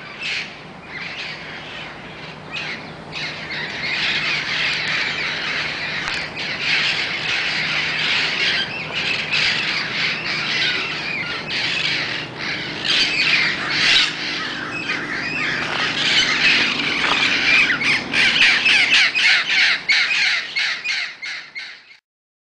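A flock of parrots squawking, many harsh calls overlapping. The calls grow denser and louder after a few seconds and cut off suddenly near the end.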